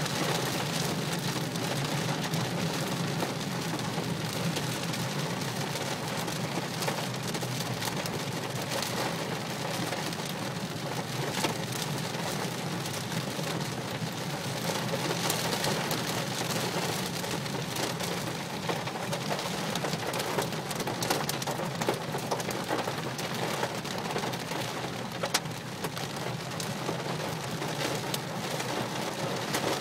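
Heavy rain hitting a moving car's roof and windshield, heard from inside the cabin as a dense, steady rush over a low road drone, with a few sharper hits standing out.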